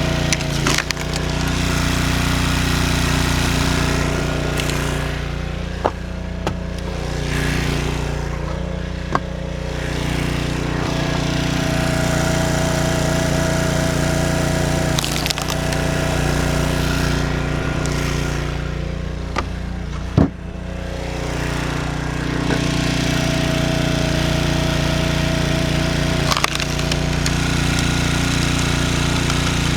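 Gas-engine log splitter running steadily, its pitch sagging and recovering under load, with sharp cracks of firewood splitting apart every few seconds.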